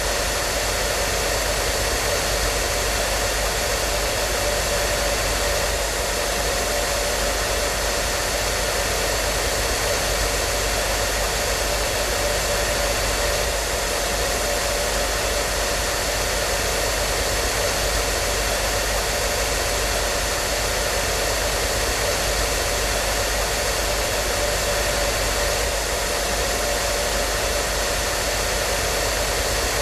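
Hair dryer running continuously at a steady speed: an even rushing of air with a constant motor whine.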